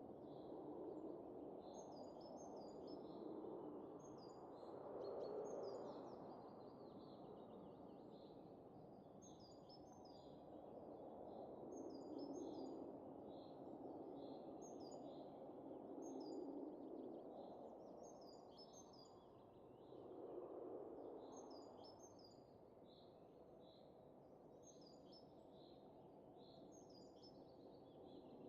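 Faint wind rising and falling in soft gusts every few seconds, with small birds chirping in short, high notes throughout.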